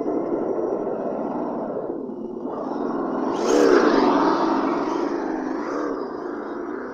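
Axial Yeti radio-controlled trophy truck's electric motor and drivetrain whining, the pitch rising and falling as it speeds up and slows. A sharp, louder burst of speed comes about three and a half seconds in.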